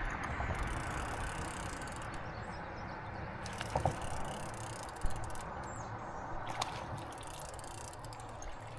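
Fishing reel being cranked and ratcheting as a small blue catfish is reeled in, over a steady rushing background, with a few sharp clicks or knocks in the middle.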